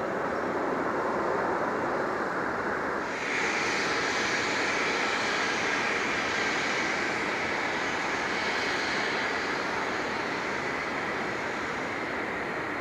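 Jet airliner engines running: a steady rushing noise that suddenly grows louder and hissier about three seconds in, then holds.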